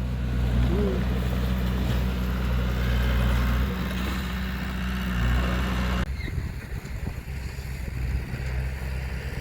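Heavy construction-machine diesel engine running steadily with a deep, even hum. About six seconds in the sound changes abruptly to a rougher, lower engine rumble.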